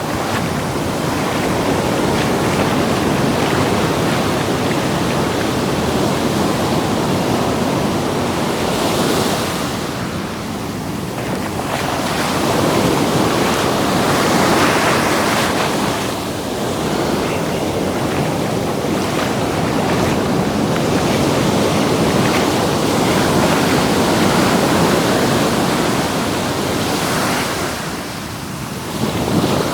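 Ocean surf at the water's edge: waves breaking and washing up the sand in a steady noise that swells and eases every few seconds, with some wind on the microphone.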